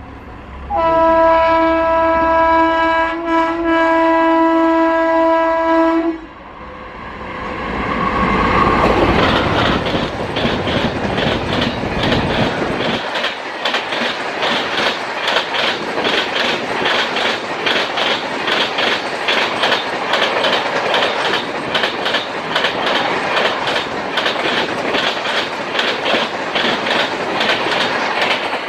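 Train horn sounding one long blast of about five seconds, then an express train passing at speed, its wheels clacking over the rail joints in a fast, steady rhythm.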